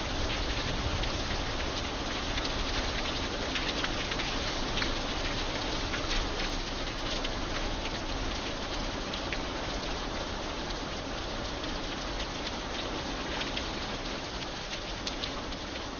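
Steady rain falling on an iron bridge: a constant hiss thick with sharp individual drop taps, easing slightly toward the end.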